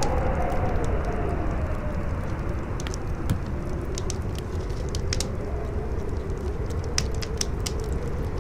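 Howling wind, a hollow whistle slowly rising and falling in pitch over a low rumbling gust noise, with a wood fire crackling and popping in scattered sharp snaps.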